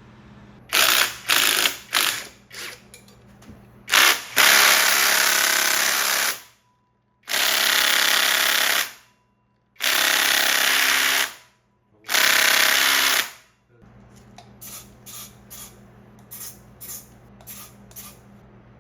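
A power tool run in a few short bursts, then four longer runs of about one and a half to two seconds each, starting and stopping sharply, while parts are taken off a motorcycle. Light clicks and taps follow near the end.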